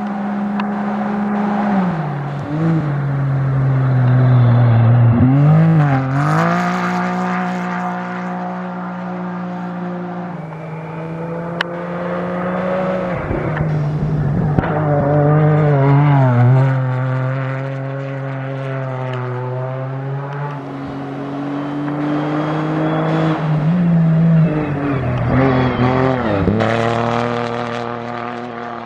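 Rally-raid vehicle engines running hard, their pitch holding steady for several seconds at a time, then dipping and climbing again. The sound swells and falls, loudest about six, sixteen and twenty-five seconds in.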